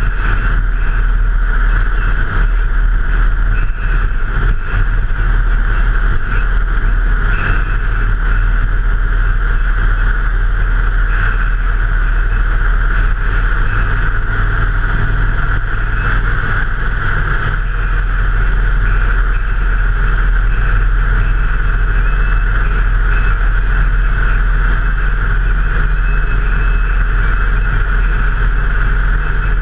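Motorcycle running at a steady cruise: a constant low engine drone mixed with wind and road noise, heard through a handlebar-mounted GoPro Hero 3 Black camera. There are no gear changes or revving.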